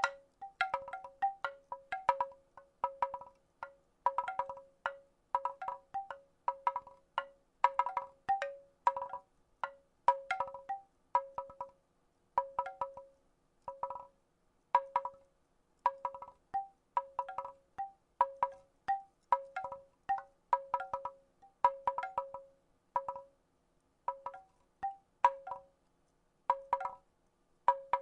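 Wooden rattle shaken in short bursts about once a second, each burst a cluster of hollow clacks with a brief pitched ring at a few fixed notes, silent between bursts.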